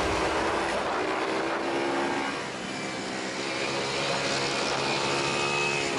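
Pit bike engines running, their pitch rising and falling as the throttle is worked, with a dip in loudness about two and a half seconds in.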